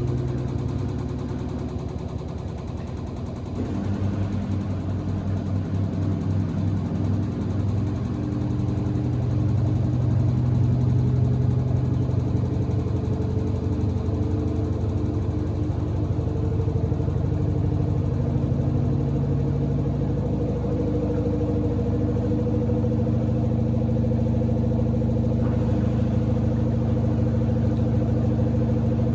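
Samsung WD70T4047CE washer-dryer running with a steady motor hum from the spinning drum. The hum dips briefly about two seconds in, then its pitch rises slowly as the drum speeds up.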